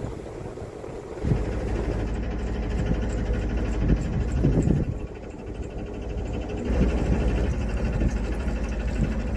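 Narrowboat engine chugging steadily with a low, regular beat; it drops away for a moment about five seconds in, then comes back.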